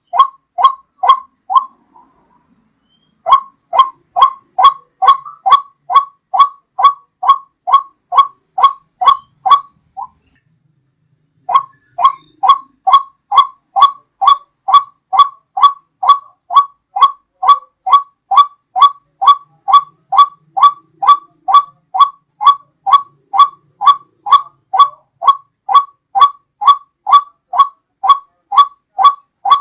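White-breasted waterhen (ruak-ruak) calling: a loud, clear note repeated steadily about twice a second, broken by two short pauses.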